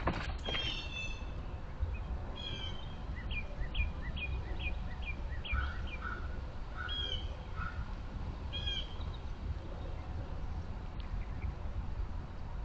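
Backyard birds calling: a few clear calls, then a run of short down-slurred notes at about two a second, with the calls dying away after about nine seconds. A steady low rumble runs underneath.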